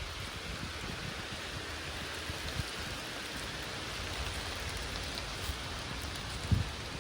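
Steady rain falling, an even hiss, with a single low thump about six and a half seconds in.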